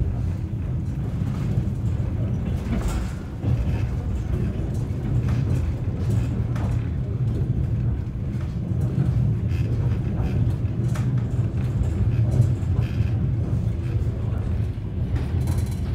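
Sleeper carriage running at speed, heard from inside the compartment: a steady low rumble of wheels on rail with scattered clicks and rattles. The level dips briefly about three seconds in.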